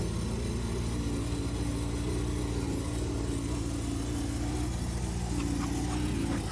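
Petrol lawn mower engine running steadily, its pitch wavering slightly as the load changes. A few faint ticks near the end.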